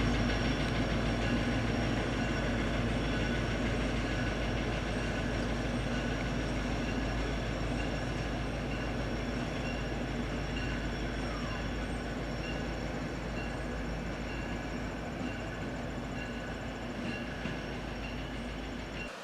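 Diesel-hauled passenger train rolling along the track, a steady rumble with a hum of tones that slowly fades as it moves away, then cuts off abruptly at the end.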